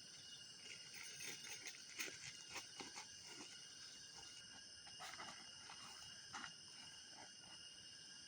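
Campfire crackling with scattered short pops, over a steady high-pitched chorus of night insects.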